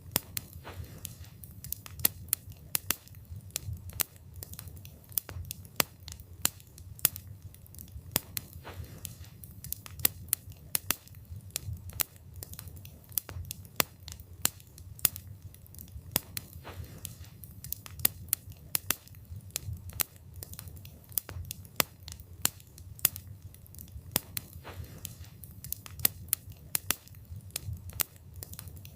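Wood fire burning with irregular sharp crackles and pops of burning wood, several a second, over a low steady rumble of the flames.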